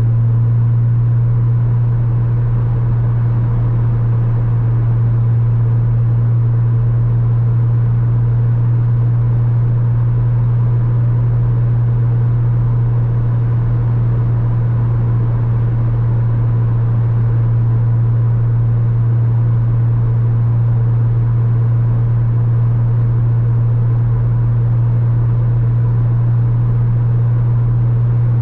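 Porsche Boxster 986's flat-six engine droning at one steady pitch while cruising at constant speed, over steady road noise.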